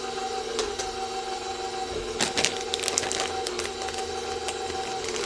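Stand mixer motor running steadily with the paddle beater in a batter, a constant whine; from about two seconds in, a run of sharp clicks and taps sounds over it.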